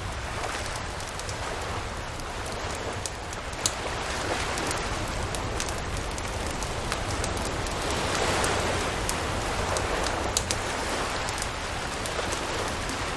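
Campfire crackling with frequent sharp pops over the wash of surf, which swells to a peak about two-thirds of the way through and then eases.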